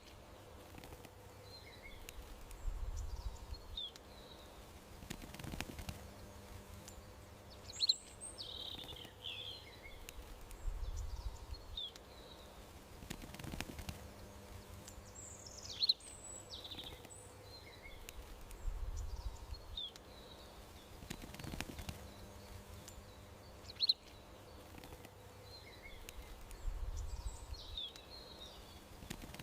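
Small songbirds chirping and twittering in short calls over a faint steady background hum. The same sharp chirp and low rumble come back about every eight seconds.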